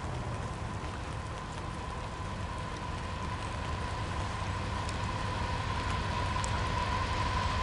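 Steady rushing outdoor noise with a low rumble that slowly grows as a distant train approaches. A faint steady high tone runs through it.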